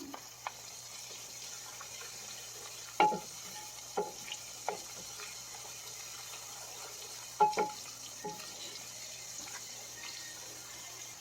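Onions and garlic sizzling steadily in hot olive oil in a pan. A utensil clinks against the pan a few times while stirring.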